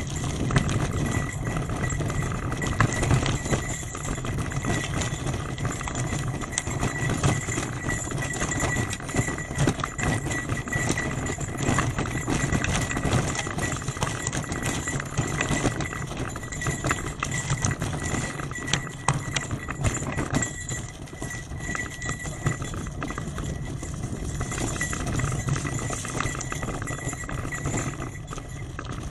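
Bicycle riding over a rough gravel forest road: tyres crunching and the bike rattling with a dense run of small irregular knocks over a steady rumble.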